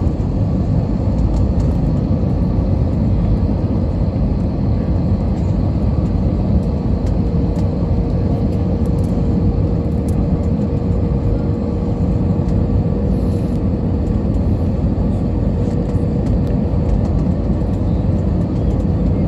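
Airbus A320 cabin noise in flight: a steady, loud rumble of engines and airflow with a faint steady hum.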